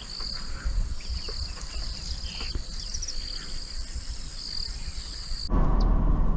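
Insects buzzing in a steady high-pitched chorus over a low rumble. About five and a half seconds in, the chorus cuts off and a louder low rumble takes over.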